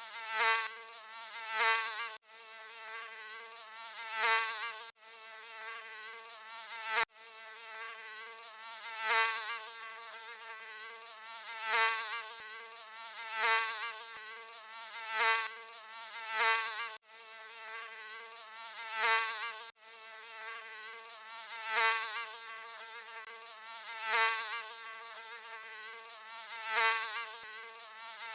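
Mosquito wing buzz: a thin, high whine with a slightly wavering pitch that swells and fades about every second and a half, as if flying past again and again. It breaks off abruptly a few times where the recording is spliced.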